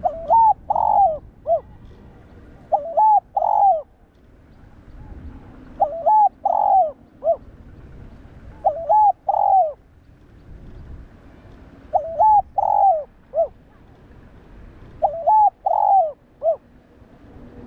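Spotted dove cooing its song, a phrase of three or four notes each ending in a short falling note, repeated six times about every three seconds.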